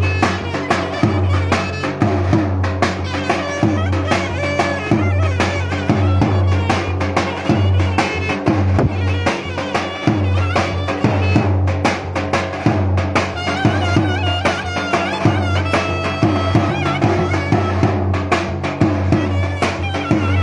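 Turkish folk dance music: a clarinet (klarnet) plays a fast, heavily ornamented melody over regular davul drum beats.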